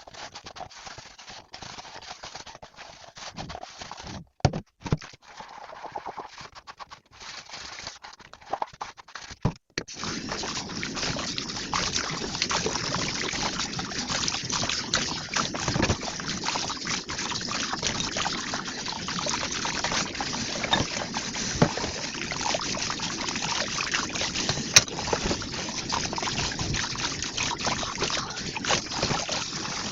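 Dishes being handled with scattered clicks and knocks, then about ten seconds in a kitchen tap starts running steadily, water splashing over the dishes with frequent small clinks.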